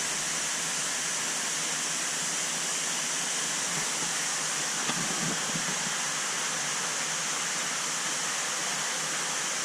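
Steady rush of running water, a constant hiss-like splashing with no change in level.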